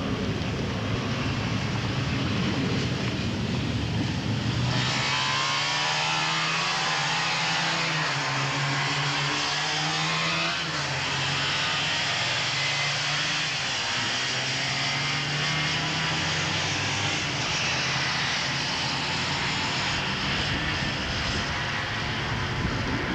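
Motorcycle engines running on a circuit, several at once, their pitch rising and falling as they rev and change gear. Wind buffets the microphone in the first few seconds, and the sound changes abruptly about five seconds in.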